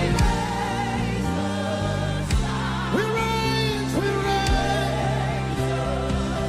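Gospel worship music: voices sing long held notes over sustained keyboard-pad chords and a steady low bass, with a few soft drum strikes.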